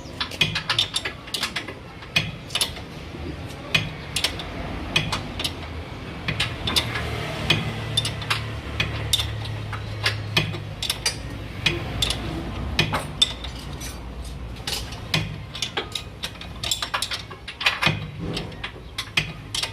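Hand tools working on a car's underbody parts: irregular sharp metallic clicks and clinks, several a second, over a low steady hum that is strongest in the middle.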